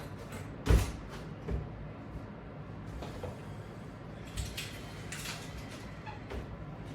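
A sharp knock a little under a second in, then a smaller knock and a few faint bumps and rustles: exercise gear being handled and set down.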